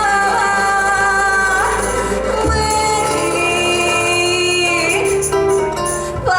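A Gypsy-style song sung with instrumental accompaniment. The singer holds two long notes, the second starting about two and a half seconds in.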